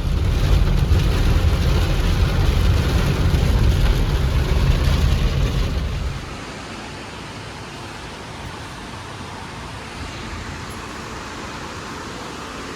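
Heavy rain hissing steadily, with a deep rumble under it for about the first six seconds that then stops, leaving only the quieter hiss.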